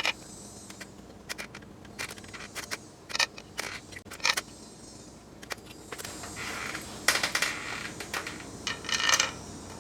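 Bolts and hand tools being handled while the timing chain cover bolts are threaded in by hand: scattered small metallic clicks and scrapes, with short jingling metal rattles about seven and nine seconds in.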